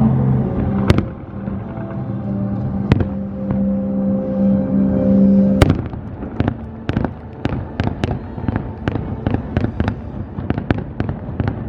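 Fireworks bursting over the show's music: single sharp bangs about a second in, at three seconds and near six seconds, then the music drops away into a rapid run of many pops, several a second.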